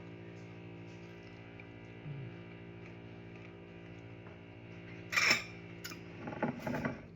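Background music holding a steady chord, then a sharp clink of cutlery against a plate about five seconds in, followed by a few more clicks and clatters of cutlery and crockery.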